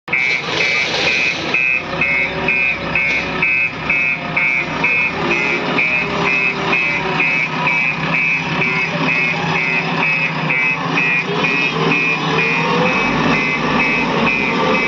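Vehicle reversing alarm beeping steadily, about two beeps a second, over a running engine.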